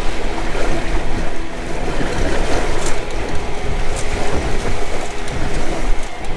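Water rushing and splashing along the hull of a Windrider 17 sailing trimaran under way in strong wind, with wind buffeting the microphone and a couple of brief sharp splashes about three and four seconds in.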